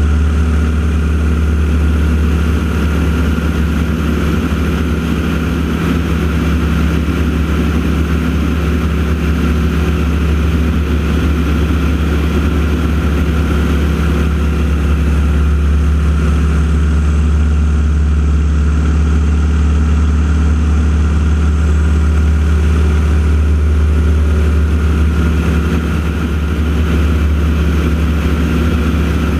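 An engine drone running steadily and loudly, with no rise or fall in pitch.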